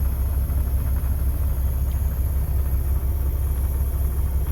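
Semi-truck's diesel engine idling, a steady low rumble.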